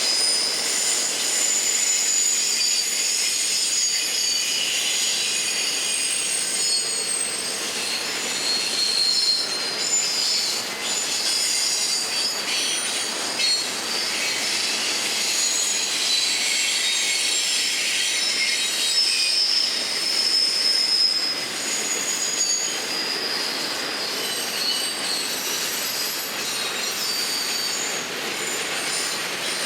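Florida East Coast freight train cars rolling steadily past, their wheels squealing with shifting high-pitched tones over a constant rattle.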